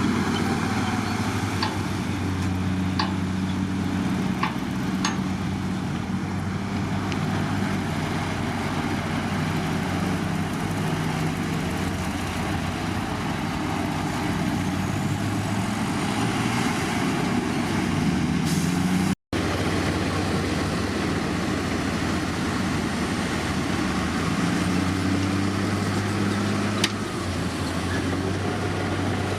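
Heavy diesel engine of earthmoving machinery running steadily, with a few sharp clanks in the first five seconds and one near the end. A momentary dropout about two-thirds of the way through.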